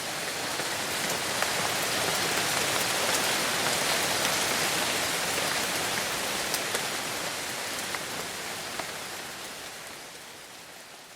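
Steady rain falling, an even hiss with scattered drop ticks, fading out over the last few seconds.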